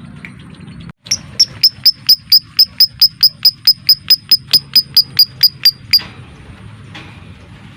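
Lovebird giving a rapid run of about twenty sharp, evenly spaced chirps, about four a second, that starts about a second in and stops abruptly after some five seconds. Fainter chirps come before and after it.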